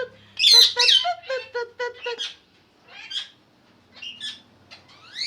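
Pet parrots calling in an aviary: a run of short pitched calls, about four a second, for the first two seconds, with loud harsh squawks over them about half a second in. After that come single squawks about a second apart.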